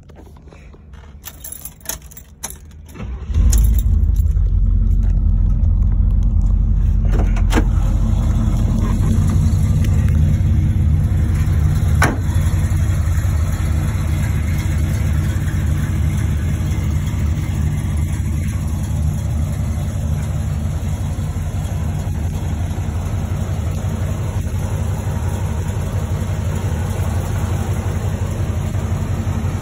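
Keys jingling and clicking, then about three seconds in the 1970 Chevrolet Impala's engine starts and settles into a steady idle. There is a sharp click about twelve seconds in.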